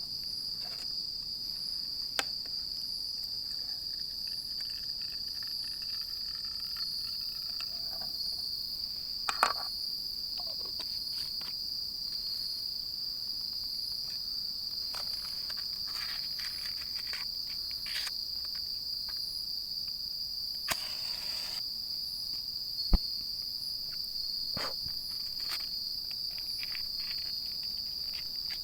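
Crickets chirring in a steady, continuous high-pitched chorus. Scattered small clicks and knocks sound over it, one sharper than the rest about three quarters of the way through.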